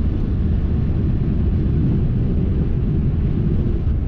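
Motorhome cruising at highway speed, about 70 mph: a steady low rumble of engine and road noise heard inside the cab.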